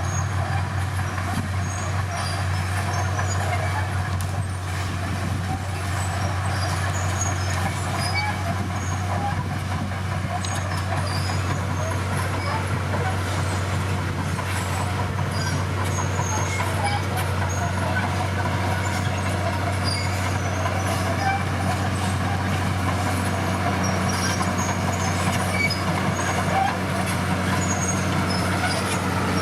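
Heavy diesel engine of earthmoving machinery running steadily with a low drone, with faint short high chirps here and there.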